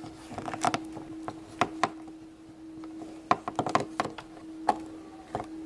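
A plastic Play-Doh popsicle mold is pressed and handled, making a run of light clicks and knocks. They bunch up around a second in and again about three to four seconds in, over a faint steady hum.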